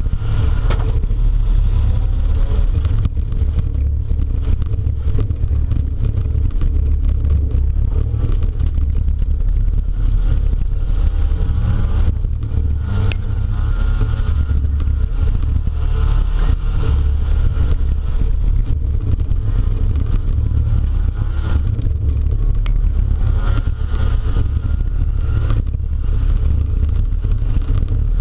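Race-car engine running and revving, heard from inside the cabin of a speedway derby car, under a heavy low rumble. A couple of sharp knocks come through, about halfway through and again about three-quarters of the way in.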